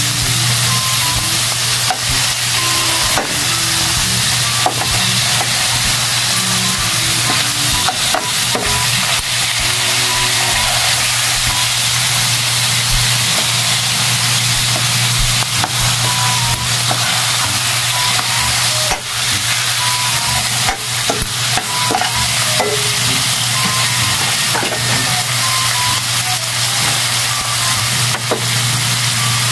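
Minced meat sizzling in a steel wok, with a metal ladle and spatula scraping and clinking against the pan as it is stirred.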